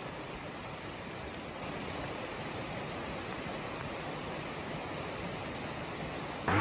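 Steady rain falling on bush and foliage, an even hiss with no single drops standing out.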